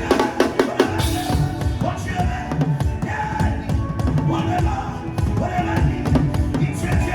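Drum-led music: drums played in fast, dense strokes over held pitched notes that come back every few seconds.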